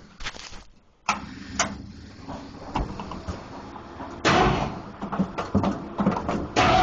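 Clicks and knocks of handling inside the cab, then the Ford 302 V8 cranking on the starter from about four seconds in and catching near the end, running loud and steady: a cold start after two months of sitting.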